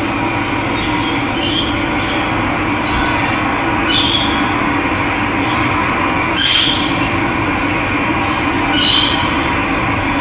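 Steady rush of running water, with a bird giving a short call four times, about every two and a half seconds, each call louder than the water.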